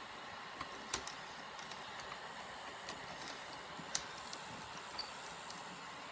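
A few sharp small clicks and taps, the loudest about a second in and about four seconds in, with a short metallic ping about five seconds in, over a steady low hiss. These are small laptop parts and screws being handled during reassembly.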